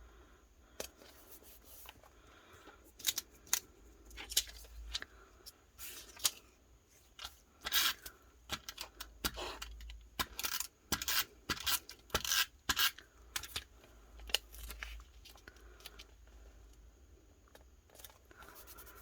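Paper crafting at a desk: scissors snipping and paper rustling, in a run of short, irregular clicks and crisp rustles.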